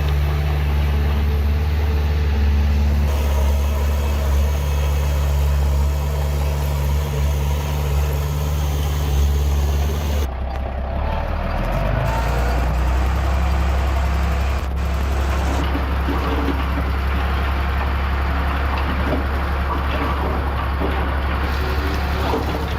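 Heavy diesel engine of earthmoving machinery running steadily with a deep drone; the sound changes abruptly about ten seconds in.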